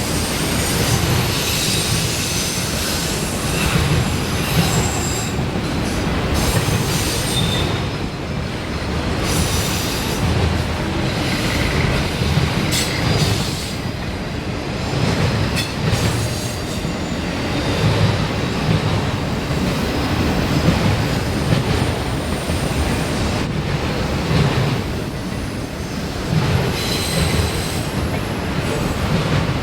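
Freight train cars rolling past steadily, with a continuous rumble and short, high-pitched squeals from the steel wheels on the rails.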